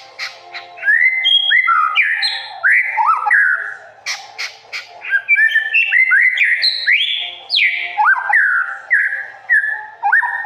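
A songbird singing a fast, varied run of loud whistled phrases, notes sweeping up and down in pitch one after another, with a few sharp clicking notes about four seconds in.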